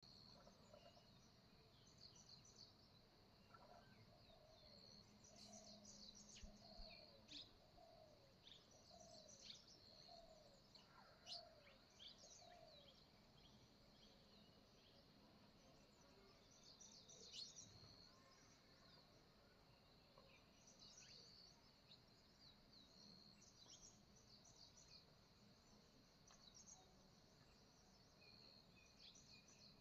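Faint morning birdsong: several small birds chirping and twittering over a steady high insect drone. For several seconds early on, a lower call repeats a short falling note about once a second.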